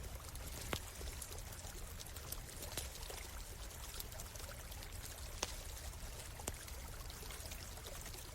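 A stream of water running steadily, with sharp crackling pops from a wood campfire; the loudest pops come just under a second in and about two thirds of the way through.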